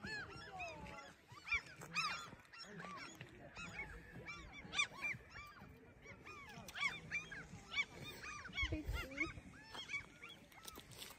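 A flock of water birds calling, with many short overlapping calls, one after another, with no pause.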